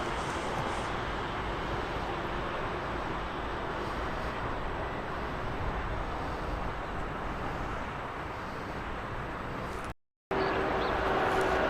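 A train running through a station, a steady rushing rumble that cuts off abruptly about ten seconds in.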